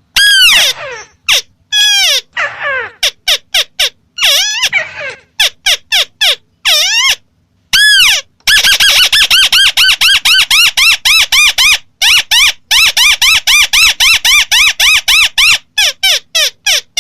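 White-browed crake calling: repeated short nasal notes, each rising then falling in pitch. They come first in short irregular bursts, then about eight seconds in as a long fast series of about four to five notes a second.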